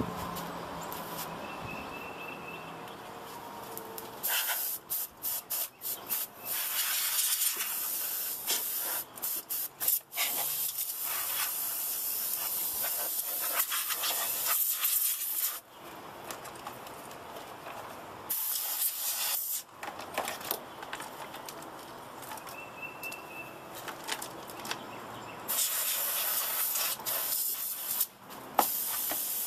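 Can of compressed air spraying dust out of a desktop computer case, in repeated bursts: some short and stuttering, some held for several seconds, with pauses between.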